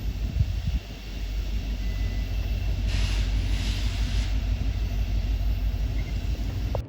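Freight train passing with a steady low rumble, a few knocks at the start and a brief hiss about three seconds in. The sound cuts off suddenly near the end.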